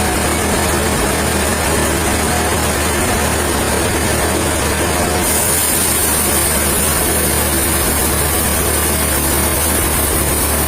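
Heavy engine-driven machinery running steadily under a constant low hum, with an even hiss above it that grows brighter about five seconds in.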